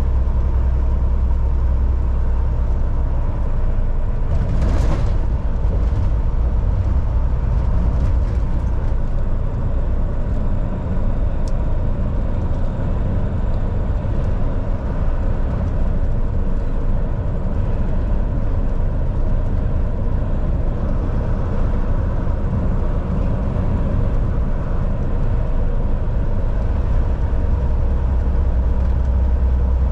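Volvo VNL 760 semi truck cruising on the highway: its diesel engine drones steadily under constant road noise. There is a short hiss about five seconds in.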